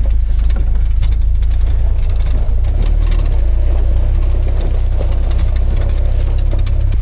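Old Toyota flatbed pickup truck running as it drives along a rough track: a steady low rumble with scattered sharp clicks and rattles.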